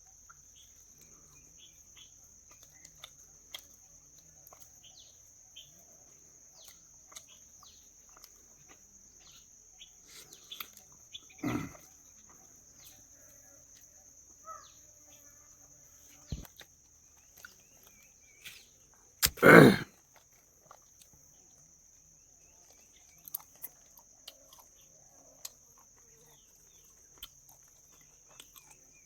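A man eating: faint mouth clicks and smacks of chewing over a steady high-pitched drone, with two short loud bursts, one near the middle and a louder one about two-thirds of the way through.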